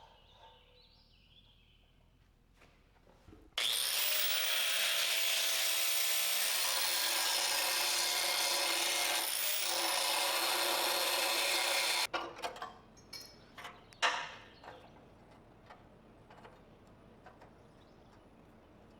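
Angle grinder grinding down a welded steel patch on a car subframe: it starts abruptly about three and a half seconds in, runs steadily for about eight seconds with a brief dip under load, then stops sharply. A few light clicks and one sharp knock follow.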